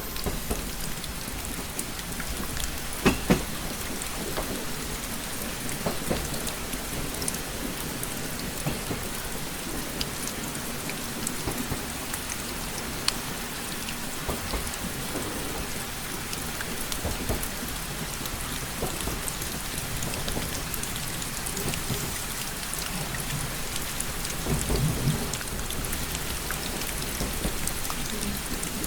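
Steady rain pattering on a window glass, with scattered sharp drop ticks over a low rumble. Two louder taps about three seconds in, and a low swell of rumble near the end.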